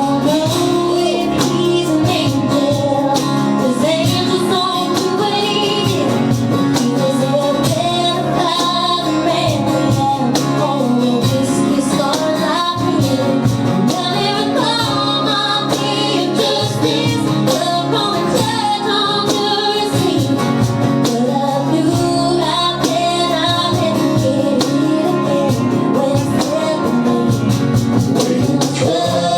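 Live country band playing, with sustained instrument chords and steady light percussion, while a woman sings a wavering melody over it.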